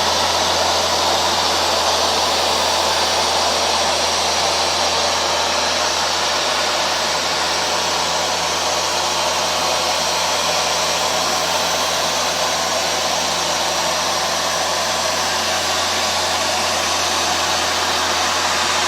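Hoover Dual Power Max carpet washer running steadily on a dry pass: the suction motor's loud even whoosh and hum as it draws water back out of the carpet, with the brush roll turning.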